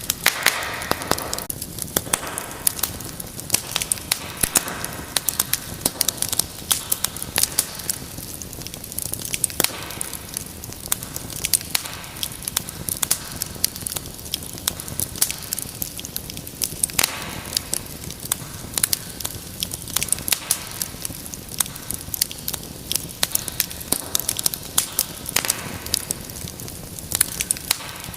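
Wood fire crackling in a fireplace: many irregular sharp pops and snaps over a steady low hiss of flame.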